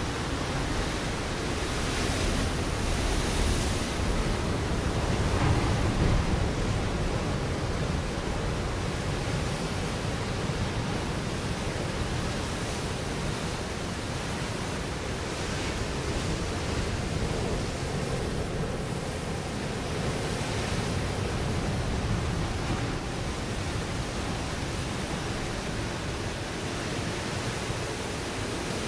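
Ocean waves breaking on a rocky shore, a steady wash of surf that swells with a larger wave about five to six seconds in and with smaller ones later.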